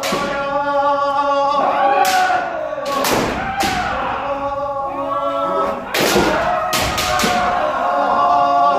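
Kendo practice: long, drawn-out kiai shouts from several people overlap, cut by sharp strikes of bamboo shinai landing on armour, several times, around the middle and near the end.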